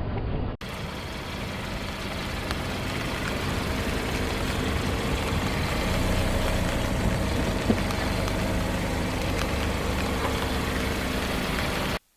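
Car engine idling steadily, with one short sharp sound about two-thirds of the way through. The sound drops out briefly just after the start and cuts off abruptly at the end.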